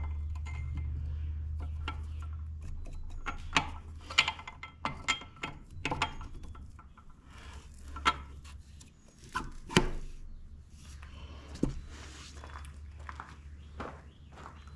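Hand tools and metal parts clinking and knocking in irregular sharp hits during work on a tractor. A low steady hum runs under it and fades after about three seconds.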